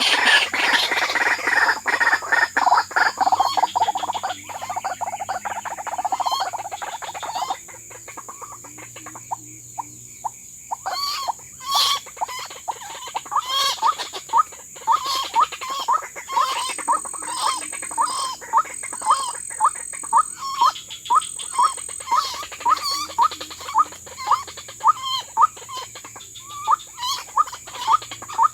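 White-breasted waterhen calls: a steady series of short, repeated calls, a little more than one a second, beginning about eleven seconds in. Before them, a louder noisy stretch with many clicks lasts for the first seven or so seconds.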